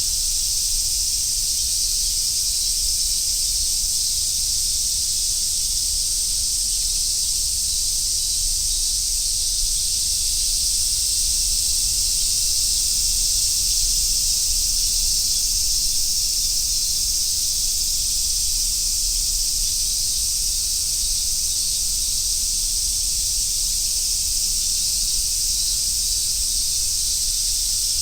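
A chorus of summer cicadas making a steady, high-pitched buzzing drone that holds even throughout, with a faint low rumble underneath.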